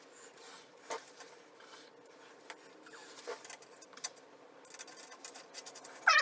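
Faint, irregular rubbing and scraping with a few light taps and clicks.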